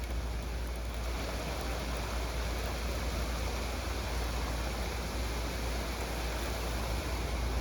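Heavy rain pouring steadily during a thunderstorm, with a constant low rumble of wind.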